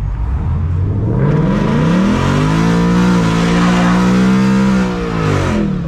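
Ford Mustang GT's 5.0 Coyote V8, with long-tube headers and the resonator deleted, revved up and held high during a burnout, with the hiss of the spinning rear tyres. The revs climb from about a second in, hold, then drop off near the end.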